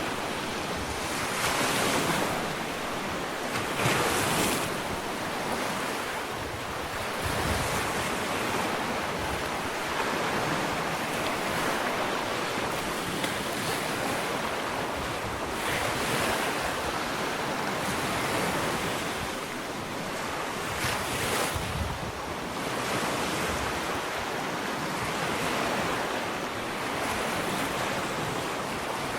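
Gentle ocean waves lapping on a sandy beach: a continuous wash of surf that swells and eases every few seconds.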